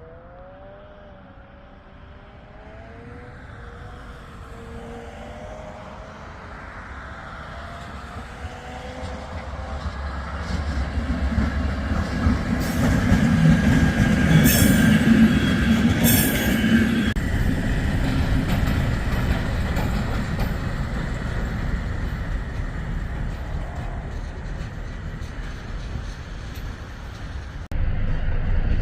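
A train approaching and passing close by. Its rumble builds over about twelve seconds to a peak with a steady high wheel squeal and a couple of sharp screeches, then slowly fades. The sound changes abruptly near the end.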